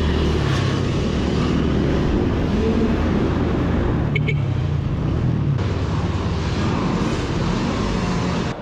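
Sur-ron Ultra Bee electric dirt bike being ridden around a dirt track: a loud, steady rush of wind and riding noise with a wavering low rumble, cutting off suddenly at the end.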